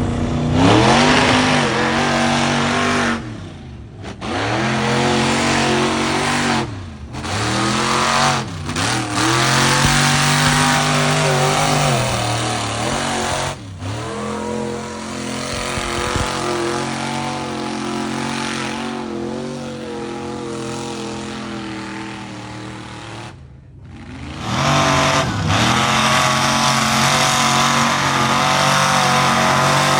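Supercharged big-block mud truck engine revving hard again and again, its pitch climbing and dropping with each throttle blip, with several abrupt breaks where the sound cuts off and restarts.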